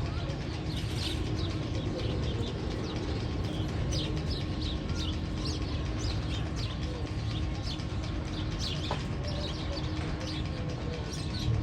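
Many small birds chirping busily, a dense run of short, quick chirps throughout, over a steady low hum.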